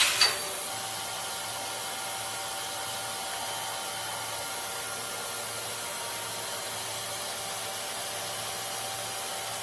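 CNC turn-mill machining centre running steadily: an even hiss with a faint hum and a few faint steady tones, after a short sharp click at the very start.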